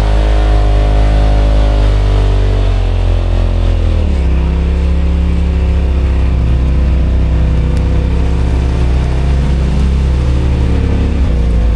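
Off-road side-by-side engine running loud under throttle. The revs drop away about four seconds in, run lower and uneven, then pick up again near the end.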